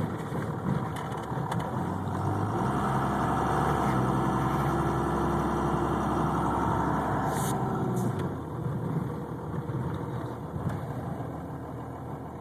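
Twin-turbocharged diesel pickup engine heard from inside the cab while driving. It grows louder about two seconds in, holds for several seconds under power, and drops back about eight seconds in.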